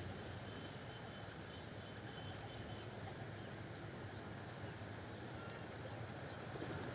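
Outdoor ambience: a steady low hum with faint, sparse bird chirps in the middle.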